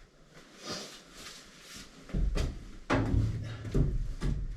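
A series of dull thumps and knocks, starting about two seconds in and repeating roughly every half second to second: something heavy being handled and set down on a wooden floor.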